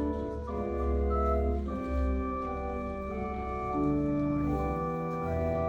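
Organ playing slow, sustained chords over a held bass, the chords changing every second or so.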